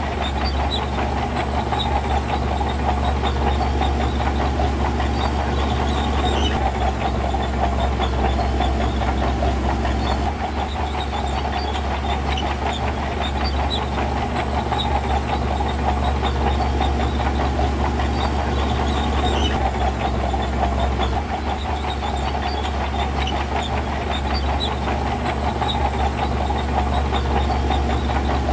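Heavy diesel earthmoving machinery running steadily under load while pushing sand, with small changes in engine note every several seconds.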